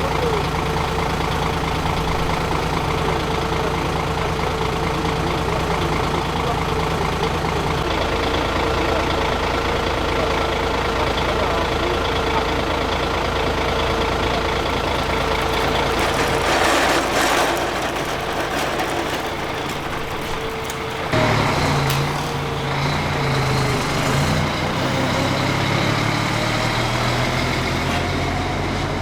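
A motor vehicle's engine running steadily. There is a brief noisy swell around two-thirds of the way through, and about 21 seconds in the engine note changes abruptly to a different steady pitch.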